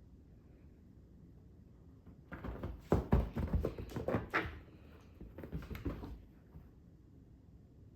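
A quick flurry of thumps and scrabbling knocks on a hard surface, in two bursts with a short pause between, like a pet cat pouncing and scrambling after a laser dot.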